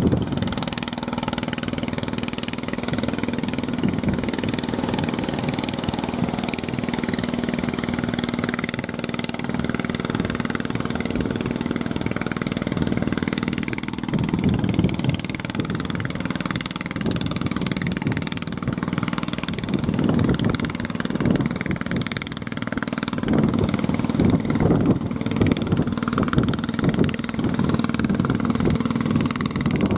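Fishing boat's engine running with a steady hum, its level rising and falling more unevenly in the second half.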